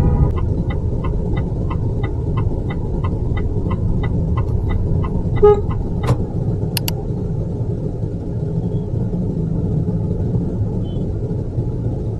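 Steady road rumble inside a moving electric car, with an indicator ticking about three times a second for the first five seconds or so. A short car-horn toot sounds about five and a half seconds in, followed by a couple of sharp clicks.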